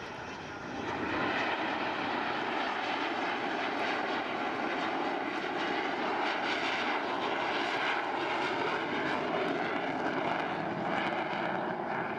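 Fixed-wing aircraft engine noise, steady and loud, growing louder about a second in and holding there.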